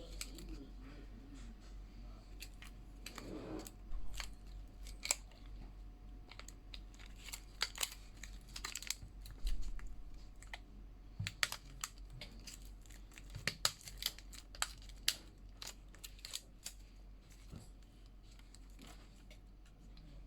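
Irregular small sharp clicks and taps from tools and parts being handled on a Samsung Galaxy A40 phone during a screen repair.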